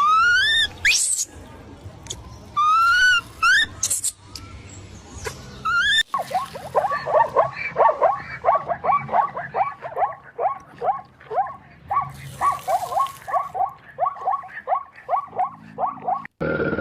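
Animal calls in two parts: first a few separate calls rising in pitch, then, after a cut, a fast run of short repeated calls, about three a second.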